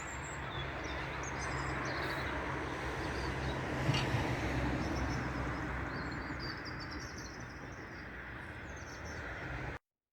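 Outdoor ambience: small birds chirping over a steady low rumble. A single click about four seconds in, and the sound cuts off abruptly just before the end.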